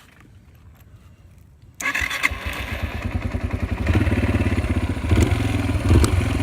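Yamaha TTR 125 dirt bike's single-cylinder four-stroke engine starting on its electric start about two seconds in, then running with a steady low, even beat that grows a little louder a couple of seconds later.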